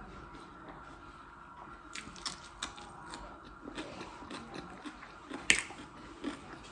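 A person chewing and biting food close to the microphone: scattered wet mouth clicks and small crunches, with one sharper crunch about five and a half seconds in. A faint steady hum lies underneath.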